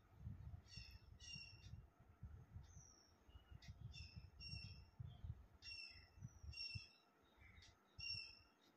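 Faint bird calls: a bird chirping repeatedly in short, sharp notes, about one or two a second, with a faint low rumble beneath.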